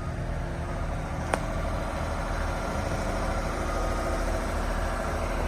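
Telehandler's diesel engine running steadily, with one sharp click about a second in.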